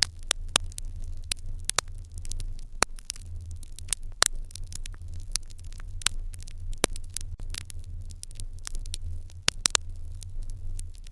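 Irori hearth fire crackling, with frequent irregular sharp pops and snaps, some louder than others, over a low steady rumble.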